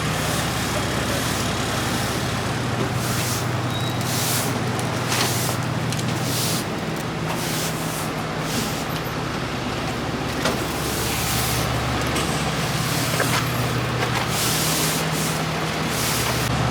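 Large truck's engine idling steadily, with short hissing sounds now and then, like air releasing.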